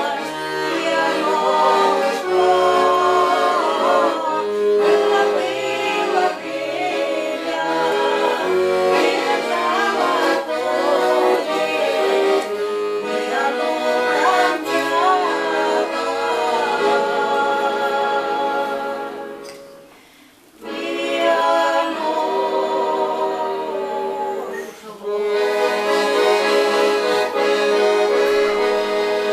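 Accordion playing a song tune over held chords, with singing over it for part of the time. The music fades to a short pause about two-thirds of the way through, then picks up again.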